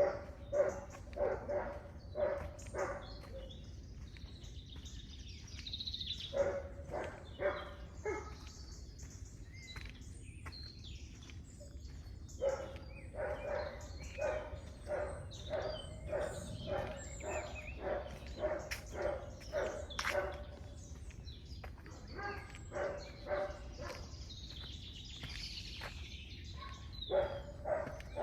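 A dog barking over and over in runs, about two barks a second, with pauses between bouts. Birds chirp faintly now and then.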